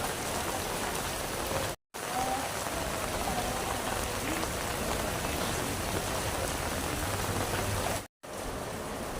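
Steady rain falling, an even hiss that cuts out for a split second twice.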